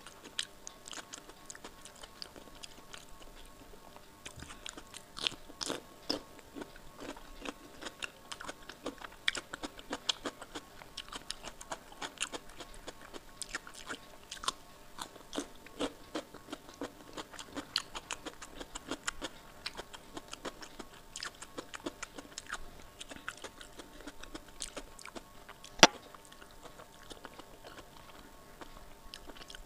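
Close-miked eating sounds: wet chewing, crunching of raw cucumber and mouth clicks, many small sharp sounds coming irregularly. One much louder sharp click near the end.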